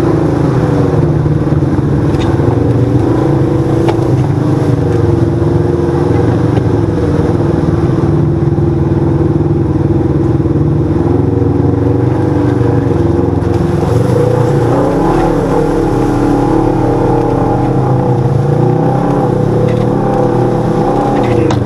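Side-by-side UTV's engine running under way, loud and steady, its revs rising and falling as it is driven along the trail.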